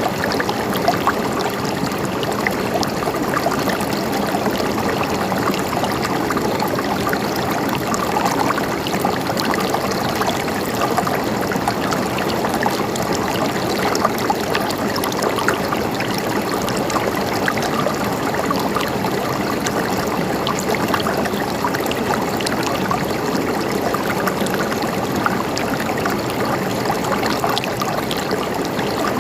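River water flowing and babbling steadily over stones, a continuous gurgling rush with fine splashy detail.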